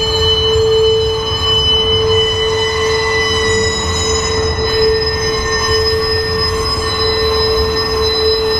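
Freight train of flatcars rolling past: a steady low rumble of wheels on rail with a continuous high-pitched wheel squeal over it.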